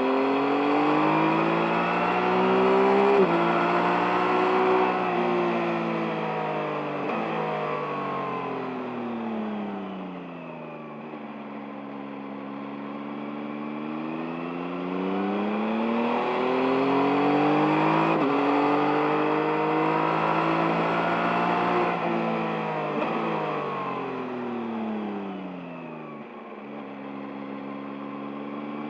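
A 2023 Yamaha MT-09's inline three-cylinder engine pulls hard through the gears on a ride, with sudden drops in pitch at the upshifts. The revs rise and fall off twice as the throttle is opened and closed, then climb again near the end.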